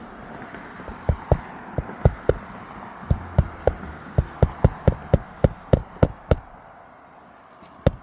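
Hammer driving roofing nails to fasten an asphalt shingle back in place: a string of sharp strikes, a few at first and then a quick steady run of about three to four a second, stopping briefly and starting again near the end.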